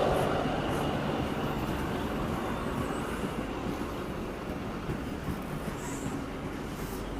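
NSW TrainLink XPT diesel passenger train pulling out of the station, its engine and wheel rumble fading steadily as it draws away.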